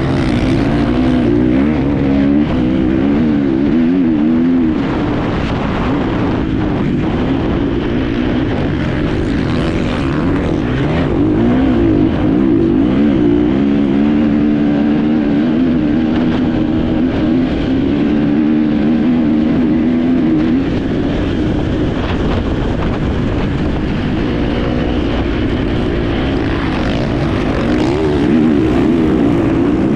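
Enduro motorcycle engine heard on board, running hard with its pitch constantly rising and falling as the throttle opens and closes over rough ground.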